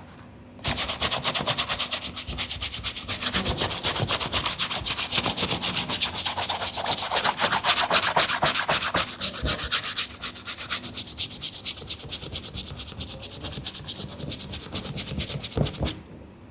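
A brush scrubbing a sneaker in rapid back-and-forth strokes, starting about half a second in and stopping near the end.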